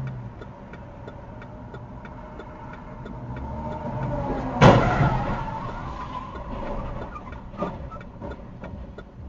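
A car crash: vehicle engine and road noise build up to one sudden, loud collision impact about halfway through, with a clatter trailing off after it and a smaller knock a few seconds later. Faint regular ticking, about twice a second, runs underneath.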